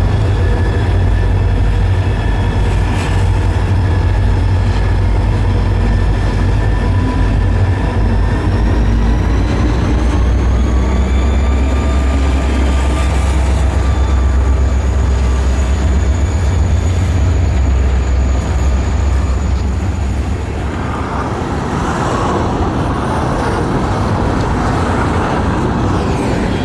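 Diesel freight locomotives running past with a heavy low rumble, followed by a long string of empty coal hopper cars rolling by. About twenty seconds in, the rumble drops away to the lighter, steady rolling of hoppers being backed slowly to couple to more empties.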